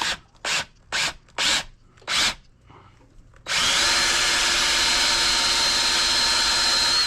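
Five short noisy bursts about half a second apart, then a power tool's electric motor starts about three and a half seconds in, its whine rising as it spins up, and runs steadily at speed.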